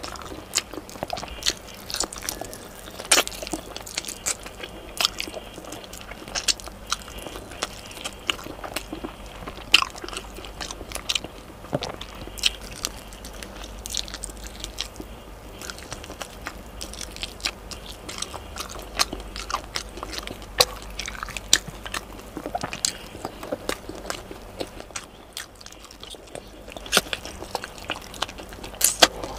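Close-miked eating of chicken adobo: biting into and chewing the braised chicken, with many sharp, irregular wet mouth clicks.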